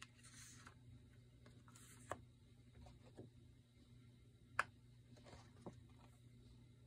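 Near silence: a faint steady room hum with a few light, isolated taps and clicks from crafting materials being handled, the sharpest about two-thirds of the way through.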